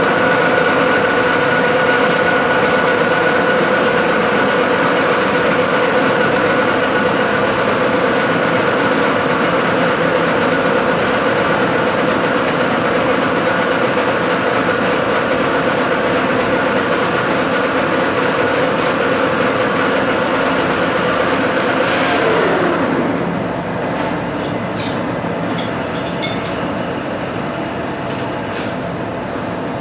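A machine tool's motor runs with a steady whine over mechanical noise, then spins down about two-thirds of the way through, its pitch falling as it slows. A few light metallic ticks follow.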